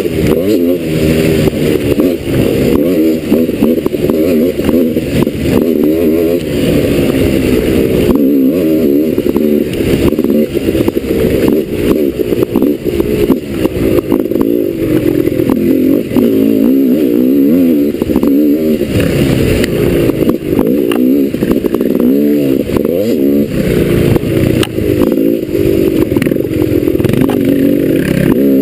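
Dirt bike engine revving up and down continually, its pitch rising and falling as the throttle is opened and closed over and over.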